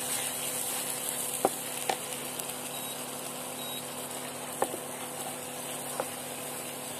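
Tomato puree and spice masala sizzling in hot oil in a pan, a steady frying hiss, with a few sharp clicks of the spatula against the pan as it is stirred.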